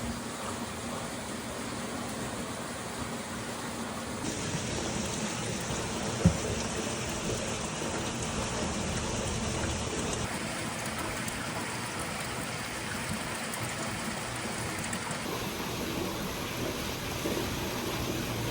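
Steady splashing, rushing water noise, likely hot spring water, with one sharp click about six seconds in. The sound changes abruptly a few times.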